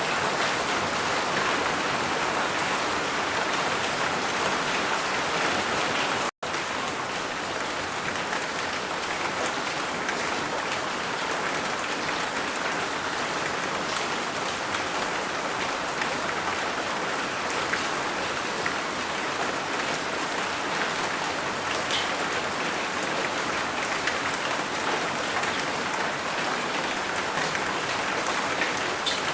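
Steady, heavy rain falling, a dense even hiss of drops with no thunder. About six seconds in, the sound drops out for a split second and resumes.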